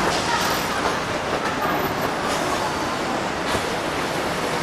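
Train running on rails, a steady noise of wheels on track.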